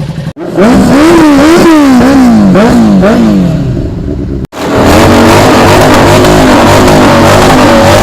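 Superbike engine revved in quick repeated blips, its pitch climbing and dropping about six times. After an abrupt cut, an engine runs loudly at high, fairly steady revs.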